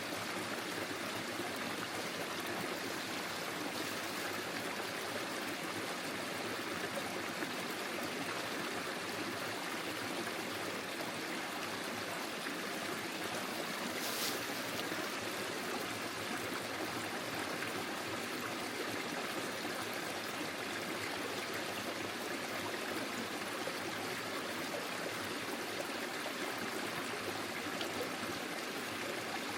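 Forest stream flowing and trickling steadily over its bed, with a brief faint click about halfway through.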